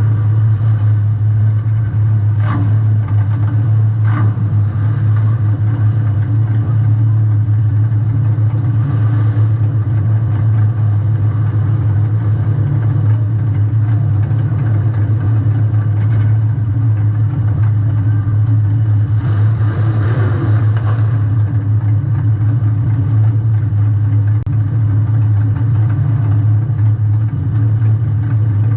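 Compact demolition derby car's engine running steadily with a low, even hum, with two sharp knocks a few seconds in and a brief rush of noise about two-thirds of the way through.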